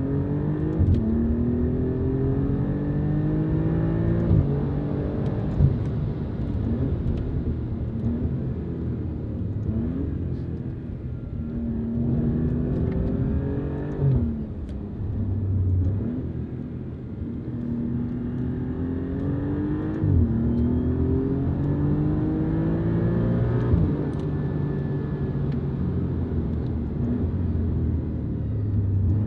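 Alfa Romeo Giulia Quadrifoglio's 2.9-litre twin-turbo V6 with a Pogea Racing exhaust, heard from inside the cabin, accelerating through the gears. The engine note rises in each gear and drops at each upshift, with sharp cracks at several of the shifts.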